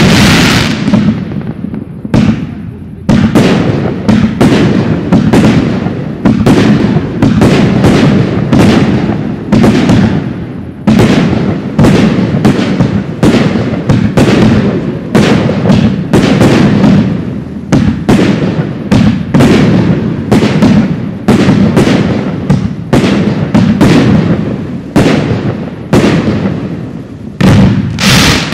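Professional aerial fireworks display: shells bursting in rapid succession, about two or three loud bangs a second, each trailing off in a short echo.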